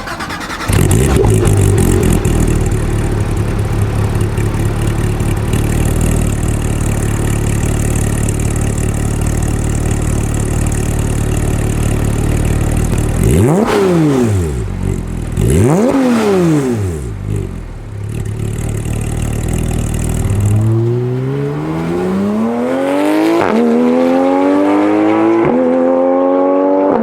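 Porsche 911 GT3 (991) flat-six through an Akrapovic exhaust: it fires up and idles steadily, is blipped twice in quick rises and falls, then accelerates with the pitch climbing, a short drop at a gear change, and climbing again.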